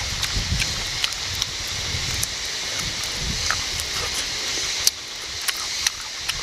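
A person biting and chewing roasted chicken close to the microphone, with wet mouth clicks and smacks over a steady high hiss. A few sharper clicks stand out in the second half.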